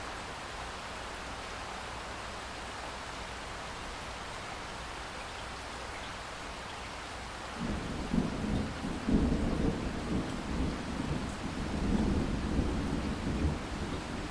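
Steady rain hissing; about seven and a half seconds in, a long low roll of thunder starts and rumbles on, swelling and fading unevenly.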